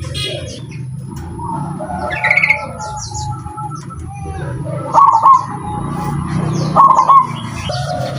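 Zebra doves cooing, with two loud trilled coos about five and seven seconds in, over a steady low background murmur. Higher, shorter chirps from other small birds come in between.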